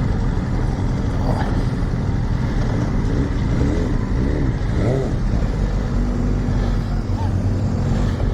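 Motorcycle engine running steadily as the bike sets off and rides, a continuous low rumble with road noise.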